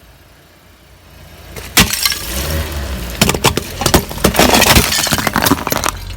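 A car tyre rolling over brittle objects and crushing them: a low vehicle rumble builds, a sharp crack comes just under two seconds in, then a run of cracking, snapping and crunching for the last few seconds.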